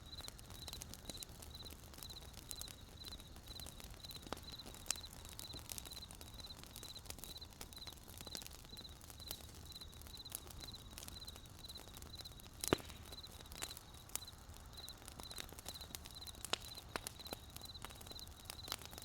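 Wood campfire crackling and popping, with one louder pop a little past halfway, while a cricket chirps steadily at about two chirps a second.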